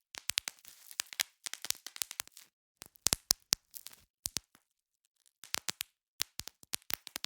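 Bubble wrap being popped: quick clusters of sharp pops with crinkling of the plastic between them, broken by a pause of about a second midway.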